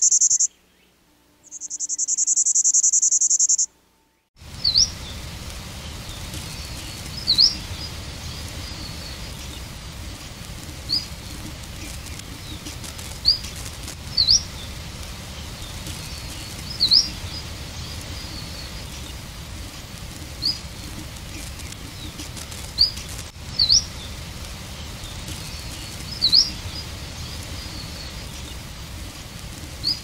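Old bird recordings: two high buzzy trills in the first few seconds, then after a brief silence a hissy field recording in which a bird gives a short, sharp upward chirp every one to three seconds, about a dozen in all.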